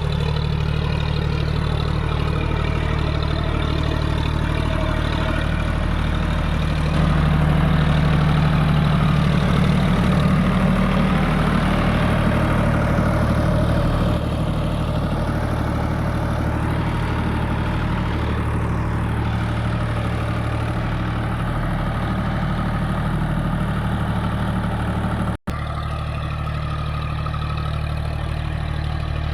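John Deere 5050D tractor's three-cylinder diesel engine running steadily, louder for several seconds about a quarter of the way in, with a brief break in the sound near the end.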